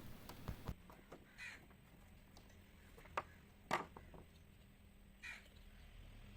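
Faint, sparse clicks and taps of hand-tool work prying open a solar panel's junction box, the sharpest about three and a half seconds in. Two short, harsh calls sound in the background, one early and one near the end.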